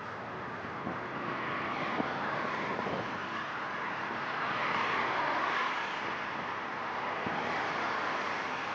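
Motor traffic passing close by on a highway: a dense rushing noise of tyres and air that swells to a peak about five seconds in and eases off again.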